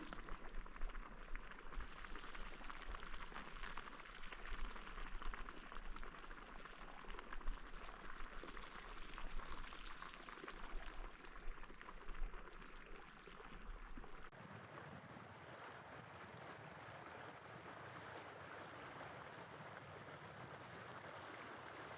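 Steady rush of running or bubbling water, which changes abruptly about two-thirds of the way through.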